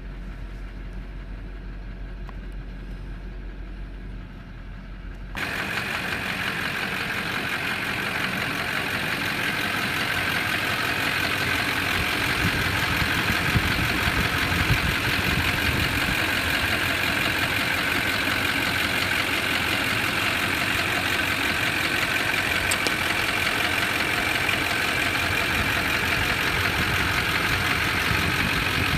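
Diesel engine of a 2002 Chevrolet truck idling steadily. About five seconds in, the sound jumps suddenly louder and fuller and then holds steady.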